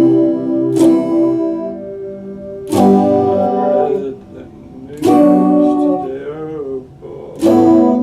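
Epiphone Les Paul Special II electric guitar strumming chords. One strum comes about a second in, then three more about two and a half seconds apart, each left to ring. A wavering pitch follows the third, and the last chord is cut short at the end.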